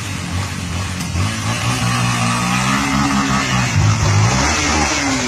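Motorcycle engine running and being revved, its pitch rising and falling, over a steady hiss.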